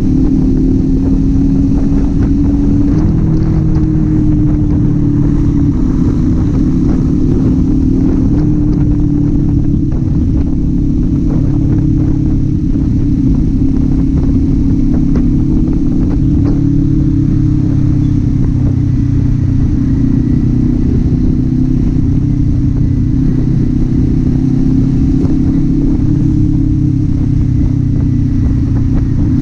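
Kawasaki Z400's parallel-twin engine running steadily under way, its exhaust note holding a fairly even pitch that rises and dips slightly with the throttle.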